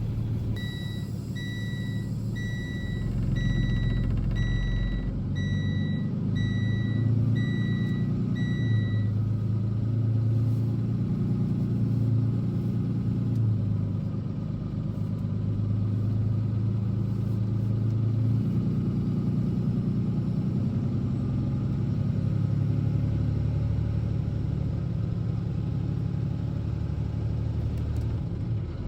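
Box truck's engine running, its low hum rising and falling in pitch. For about the first nine seconds a high electronic beep sounds about once a second, then stops.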